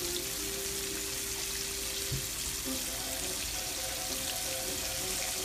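Flour-dredged catfish fillets frying in shallow oil in a skillet: a steady, even sizzle.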